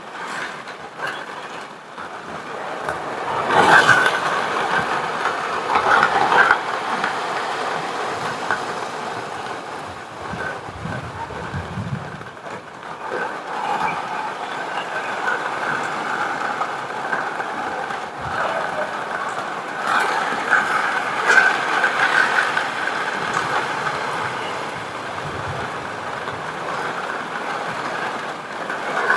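Heavy rain: a steady rushing noise that swells and eases, with louder surges at several points.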